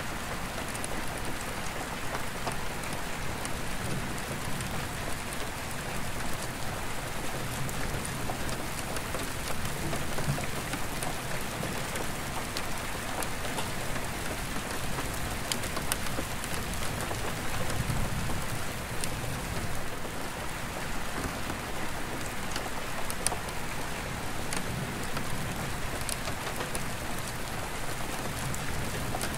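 Steady rain falling on an attic skylight, with single drops ticking sharply on the glass. A low, distant rumble of thunder swells a few times and is loudest about two-thirds of the way through.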